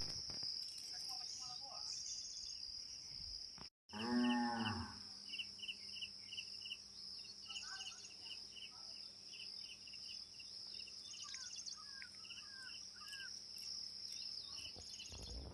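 A single low, drawn-out animal call about four seconds in, over a steady high insect drone with regular chirping and a few scattered bird-like chirps.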